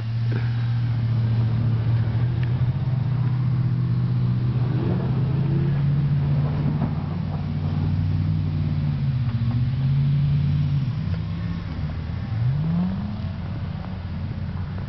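2002 Chevy truck's engine running hard as the truck spins donuts on snow, holding a fairly steady pitch. The pitch drops about eleven seconds in, then rises again as the engine revs up near the end.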